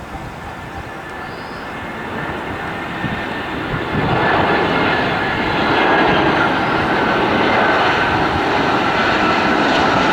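Airliner's engines passing by: a rushing noise that swells sharply about four seconds in and then holds loud, with a thin steady whine on top.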